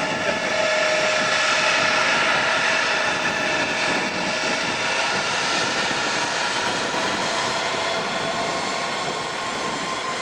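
Airliner's engines running loud as the plane passes, a rushing roar with several steady whining tones on top, easing off slowly toward the end.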